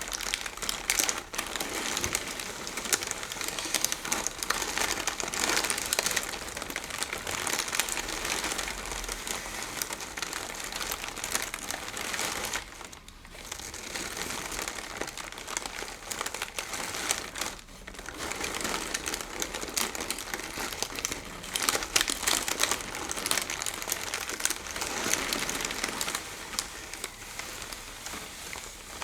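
Close-up crinkling: something crinkly is scrunched and rubbed by hands, a dense, continuous crackle. It eases off briefly twice, about halfway through and a few seconds later.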